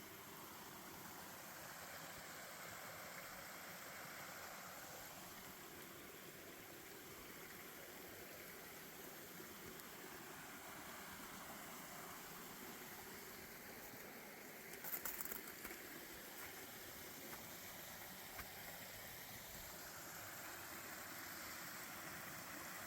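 Faint, steady rush of flowing creek water. A brief clatter of small clicks about fifteen seconds in.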